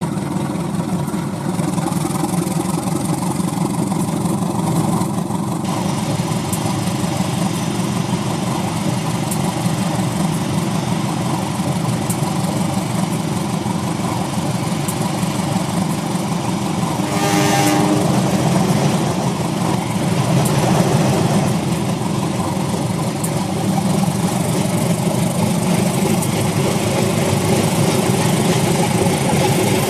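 MTH RailKing model trains running on the track: a steady mechanical rumble of motors and wheels, with faint ticks. About seventeen seconds in, a brief pitched sound rises over it.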